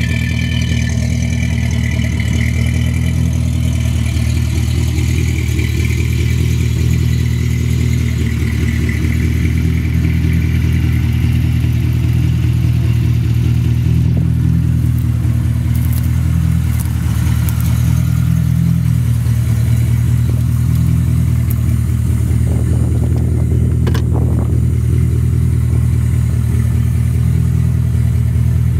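A 1978 Porsche 928's 4.5-litre V8 idling steadily, its low, even exhaust note holding without revving. A brief click sounds late on.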